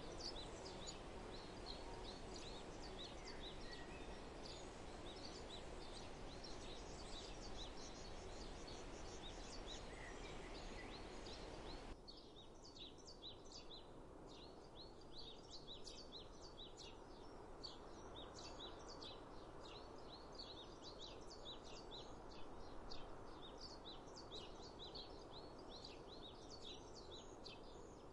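Songbirds chirping and singing over a faint steady background hiss. About twelve seconds in, the background noise drops off abruptly and the chirping carries on, busier than before.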